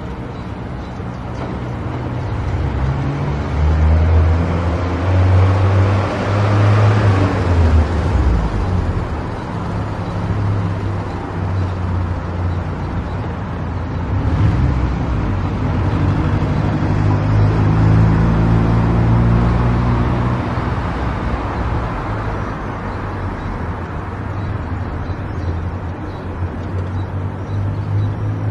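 A car driving on the road: steady engine and tyre noise, with the engine note swelling and shifting in pitch twice as it pulls and eases off.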